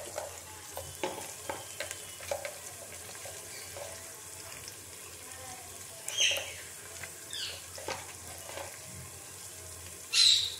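Onion-tomato masala frying in ghee in a metal pot, a low steady sizzle with small clicks. A spoon scrapes the pot a few times, the loudest scrape near the end.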